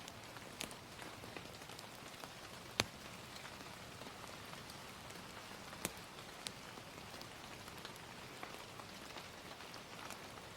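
Gentle, steady rain, an even soft hiss, with a few sharp crackles from a wood fire scattered through it, the loudest about three seconds in and another near six seconds.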